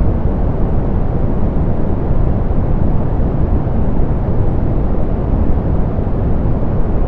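Steady soft pink noise: an even, unchanging hiss weighted toward the low end, with the highs rolled off.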